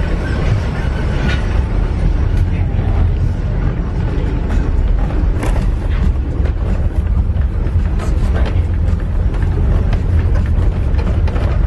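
Steady low rumble of the Indian Pacific passenger train running on the rails, heard from inside a carriage, with scattered light knocks and rattles from the carriage.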